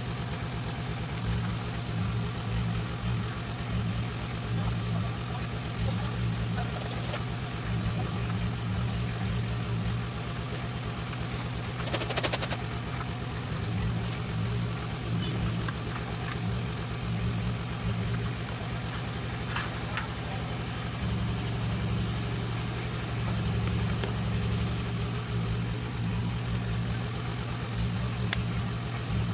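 An engine idling steadily, with a brief sharp clatter about twelve seconds in.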